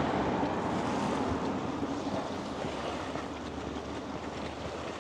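Strong wind rushing against a DJI Mic 2 in its furry wind muff, a steady noisy blowing that slowly dies down.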